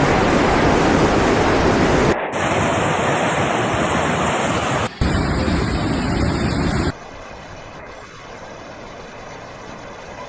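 Rushing floodwater: a steady, loud roar of water that changes abruptly about two seconds in, breaks off briefly near five seconds, and drops to a much quieter rushing sound about seven seconds in.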